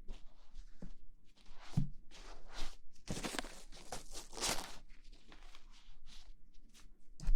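Close-up rustling and scraping at an ASMR microphone: a string of irregular swishes of different lengths, loudest a little past the middle.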